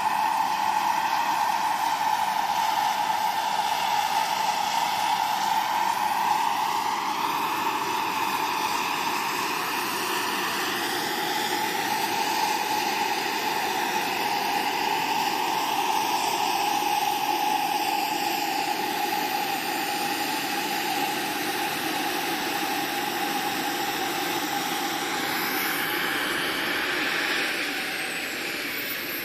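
Small gas-turbine engine of a radio-controlled EC 145 scale helicopter running, a steady high whine over a rushing hiss, which drops a little in loudness near the end.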